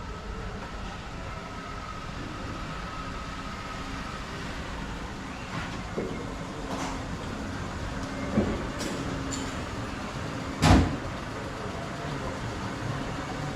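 Steady low vehicle rumble with a few sharp knocks, the loudest about eleven seconds in.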